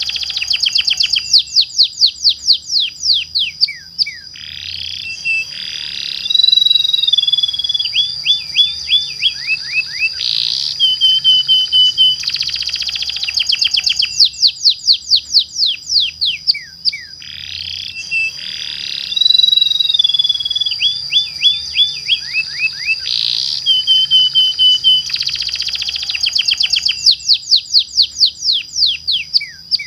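Domestic canary singing a long lure song of fast trills and rolls with quickly falling sweeps. The same run of phrases repeats about every 12 to 13 seconds, over a steady high tone.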